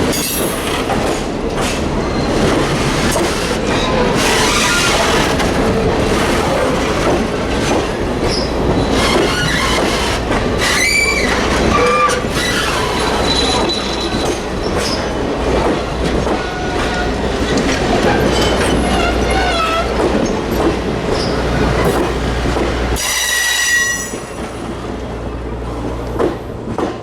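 A train rolling past close by, with steel wheels clattering over the rail joints and squealing in shifting high tones. Near the end there is one brief sharper squeal, and then the noise drops off as the train moves away.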